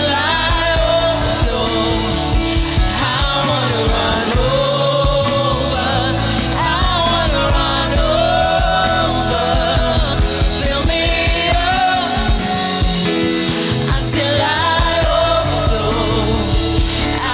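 Gospel worship music with a singer and a band over a steady beat.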